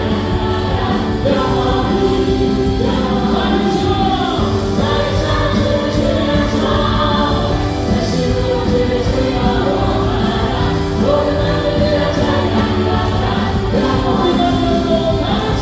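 Live church praise band (keyboards, electric guitar, bass guitar and drums) playing a Korean worship song with several voices singing together over a steady drum beat.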